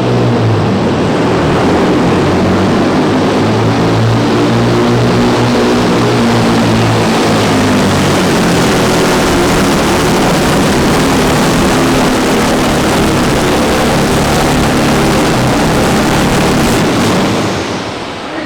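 Heavy diesel pulling truck's engine running under full load through a pull, loud and steady for about seventeen seconds, then dropping off near the end.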